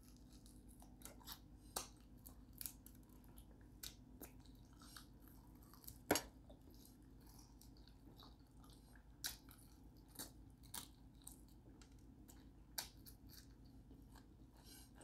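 Faint chewing and biting on a crispy fried chicken wing: scattered soft crunches and mouth clicks, the loudest about six seconds in.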